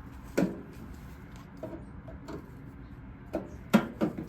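A few sharp clicks and knocks of hands working on the pellet grill's control panel and its wire connectors as they are taken off, the loudest knock near the end.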